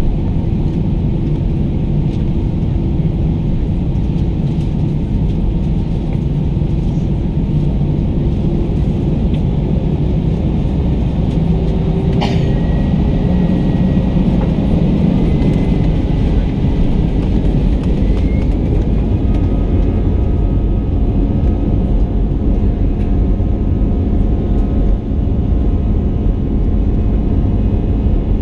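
Airbus A320's CFM56 engines and airflow heard inside the passenger cabin: a loud, steady rumble. About twelve seconds in there is a single click, followed by a thin tone that holds for several seconds and rises at its end.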